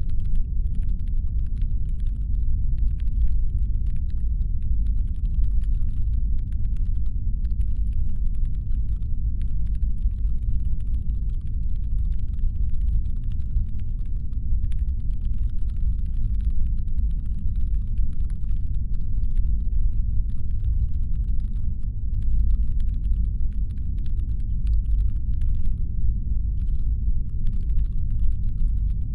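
Constant deep brown-noise rumble, a sci-fi spaceship engine hum, with a faint dense crackle of ticks above it.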